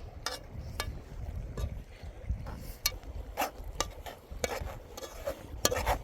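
A utensil clinking and scraping against a cooking pot in irregular knocks, as food is stirred, over a low rumble of wind on the microphone.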